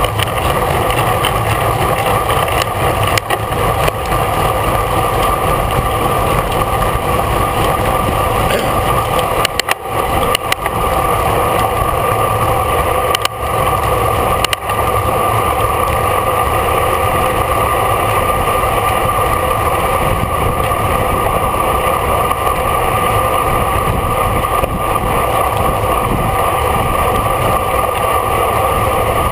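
Steady wind and road noise from a racing bicycle riding at speed in a bunch, with wind rushing over the microphone. There are a few brief dips around the middle.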